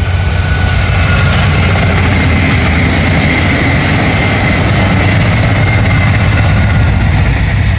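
VIA Rail passenger train passing close by at speed: a loud, steady rumble of the diesel locomotive and the wheels running on the rails.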